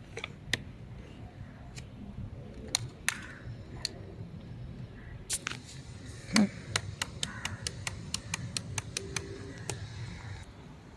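A run of irregular sharp clicks and light taps, several a second in the middle stretch, from handling the opened Kärcher CV 38/2 upright vacuum cleaner. Its motor stays silent.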